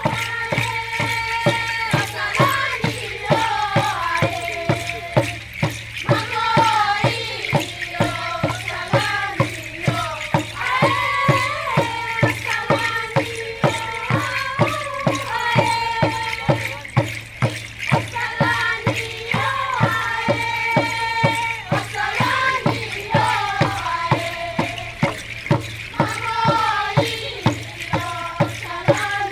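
Group of voices singing a chant over a steady drumbeat of about two beats a second.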